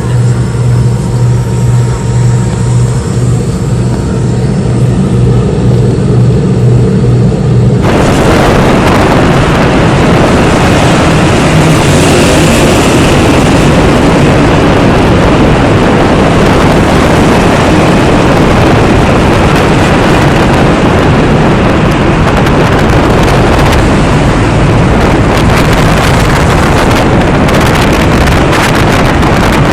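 A vehicle's steady low engine hum, then a sudden change about eight seconds in to a loud, steady rushing noise that fills the rest.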